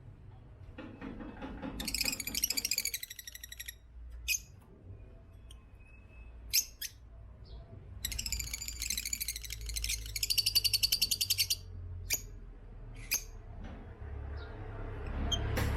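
African lovebirds calling: two runs of rapid, high-pitched chattering, each about two to three seconds long, with single sharp chirps in between. A low rumble builds near the end.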